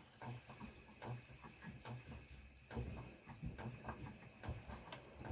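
Spinning wheel being treadled, a faint soft knocking repeating about two times a second as yarn is spun.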